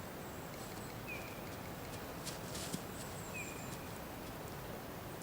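Quiet forest ambience at dawn: a soft steady hiss with a short high chirp about every two seconds and a couple of light clicks near the middle.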